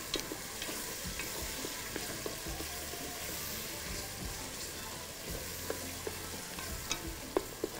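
Onions frying in oil in an aluminium pot, a steady sizzle, with the light scrape and tap of a wooden spoon stirring them.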